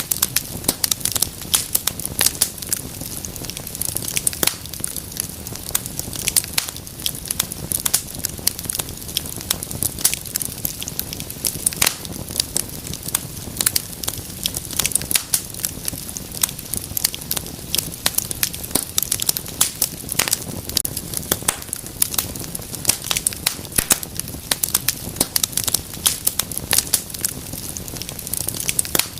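Wood fire crackling steadily, with many sharp irregular pops and snaps over a soft low rumble of the flames.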